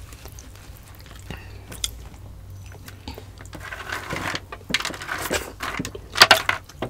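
Close-miked eating sounds: chewing and biting with some crunching. It gets busier from about four seconds in, and there are a couple of loud sharp sounds a little after six seconds.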